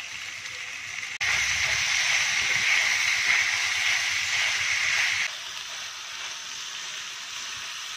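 Chicken and vegetables sizzling in a hot frying pan as a spatula stirs them. The sizzle is steady, then much louder for about four seconds, starting suddenly about a second in and stopping just as suddenly.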